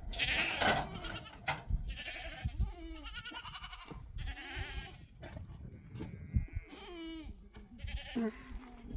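Goats bleating, a string of about six wavering calls one after another.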